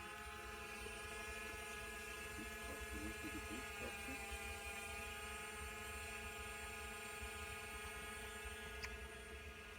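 Small quadcopter drone, a DJI Mavic Mini, whining steadily as its propellers hold it in the air, the pitch sagging slightly about four to five seconds in.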